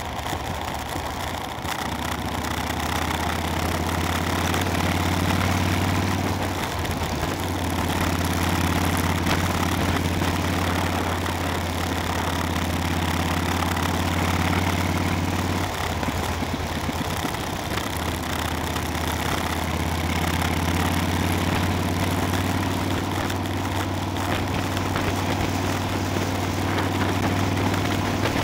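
Motorcycle engine running steadily at cruising speed, heard from on board the bike with wind and road noise. The engine note dips and breaks briefly twice, about six seconds in and again around sixteen to eighteen seconds in.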